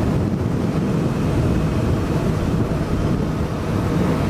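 Steady wind rush over the camera microphone while riding a Suzuki GSX-S1000 at a constant pace, with the bike's inline-four engine running underneath.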